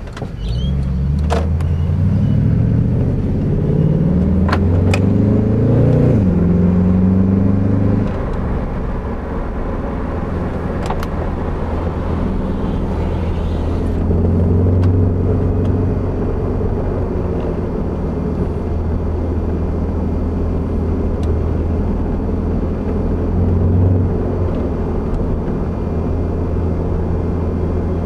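Lexus LS400's 1UZ-FE V8 breathing through 2.25-inch straight-through exhaust pipes, heard from inside the cabin. It accelerates with rising pitch, drops back briefly about six seconds in, then climbs again. About eight seconds in it eases off and settles into a steady low drone at cruise.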